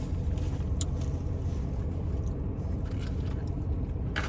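Steady low rumble of a car's running engine heard from inside the cabin, with a few faint clicks and rustles and a sharper click near the end.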